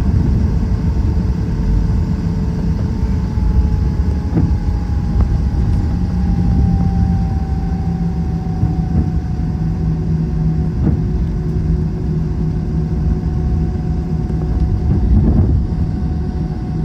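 Cabin noise inside an Airbus A321: a steady, heavy rumble with a jet-engine whine that slowly falls in pitch, and a few faint knocks.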